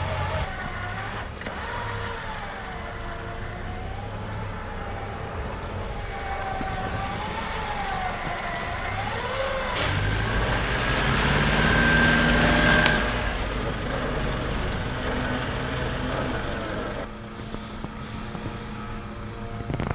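Off-road vehicle engine revving up and down. It runs louder from about halfway through, then drops back abruptly about three seconds later.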